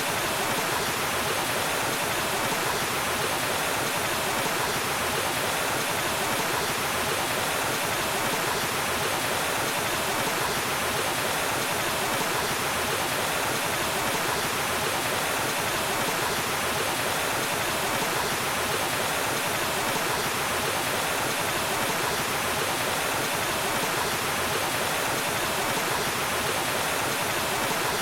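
Waterfall: water falling and rushing in a steady, unbroken roar-like hiss with no change in level.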